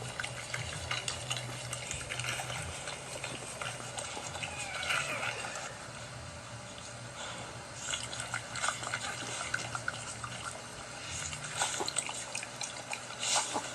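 Wet licking and slurping from a mother dog cleaning her newborn puppies, with many small clicks and a faint puppy squeak about five seconds in.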